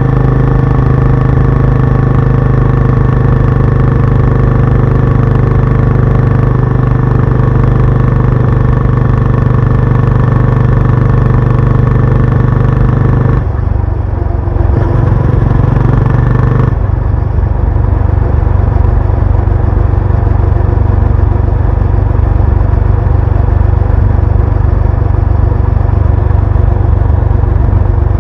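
Benelli Imperiale 400's single-cylinder engine and exhaust running on the move, a loud, steady note at first. About halfway through the note changes: it eases briefly, then runs on rougher.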